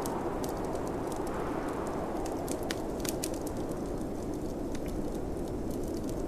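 Wood fire crackling with irregular sharp pops, over a steady rush of snowstorm wind.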